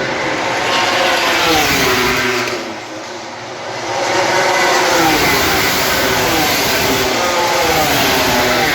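MotoGP racing motorcycles passing at speed, their high-revving engine notes falling in pitch as they go by. Two loud passes, with a brief dip about three seconds in.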